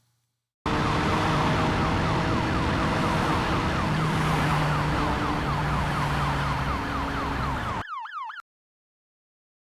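Sound-effects playback of a motorcycle chase: a motorcycle engine running steadily over road noise, with a police siren cycling quickly in the background. Near the end the engine drops out, leaving a moment of siren alone, and then everything cuts off suddenly.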